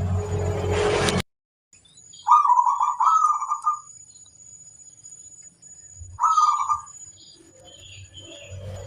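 Zebra dove (perkutut) singing: three phrases of quick, rolling cooing notes. A hum and hiss cuts off about a second in, and a faint steady high whine runs behind the song.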